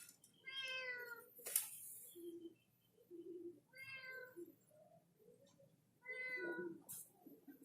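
A cat meowing, three short meows a few seconds apart, each falling slightly in pitch. A couple of sharp clicks come between them, about one and a half seconds in and again near seven seconds.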